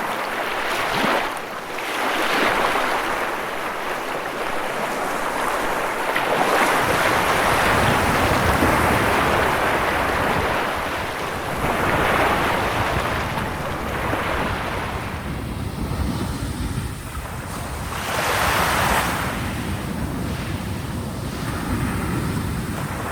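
Ocean surf, waves breaking and washing in, swelling louder every few seconds. A deep low rumble joins in about six seconds in.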